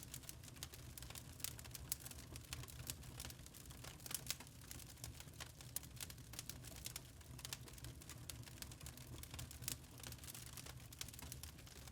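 Wood fire crackling in a fireplace: a steady low rumble of the flames with frequent irregular sharp pops and snaps.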